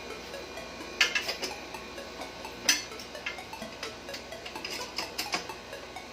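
Metal hand tools clinking and clicking on the motorcycle's rear-wheel hardware, with two sharper metallic clanks about a second in and near the middle.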